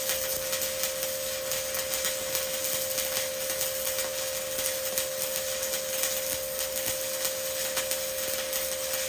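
Stick-welding arc with a 1/8" E7018 rod at 120 amps, crackling and sizzling steadily through an overhead hot pass, with a constant high hum under it.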